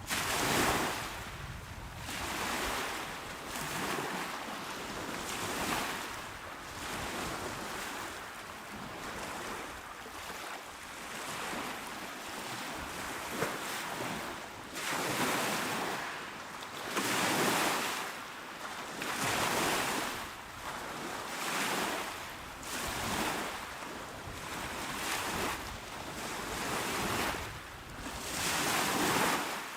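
Small ocean waves washing onto a shore, each swell of surf hiss rising and falling about every two seconds.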